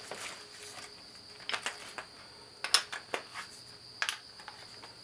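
A few sharp metallic clinks and knocks of hand tools being handled, one of them loud a little under three seconds in, over a steady high-pitched tone.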